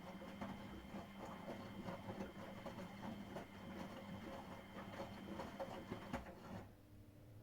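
Miele Professional WS5436 washing machine in its wash phase: the drum motor hums steadily under an irregular patter from the tumbling load, then the drum stops about six and a half seconds in.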